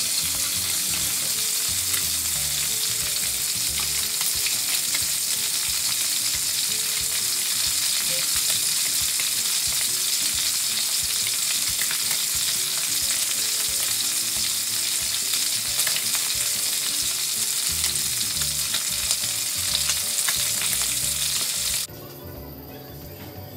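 Hot oil sizzling steadily around a whole fish frying in a wok. The sizzle cuts off abruptly near the end.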